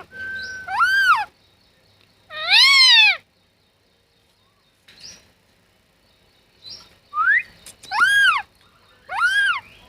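A green Indian parrot giving a series of loud, harsh calls that rise and fall in pitch. The longest and loudest comes near three seconds in, and a quick run of three more follows near the end.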